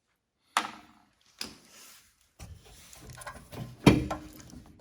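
Sharp metal clicks and knocks from hand work on a lawn tractor mower deck's pins, clips and brackets: two clicks, then a stretch of small handling noises and a louder knock near the end.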